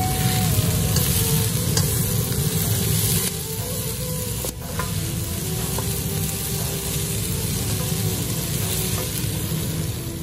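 Chicken strips, sliced onion and bell peppers sizzling as they are stir-fried in a wok, with a spatula stirring and scraping through them.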